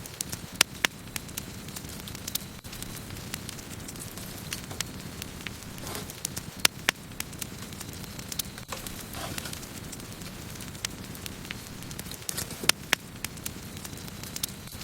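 Wood campfire burning with a steady low rush of flames and irregular sharp crackles and pops of the wood, a few louder pops standing out.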